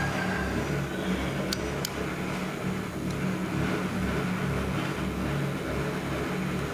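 A small motor running steadily with a low hum that switches on abruptly. Two brief clicks come about one and a half and two seconds in.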